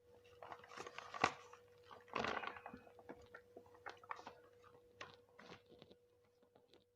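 A person chewing and biting food close to the microphone: irregular wet mouth sounds and crunches, loudest about a second in and again around two seconds in.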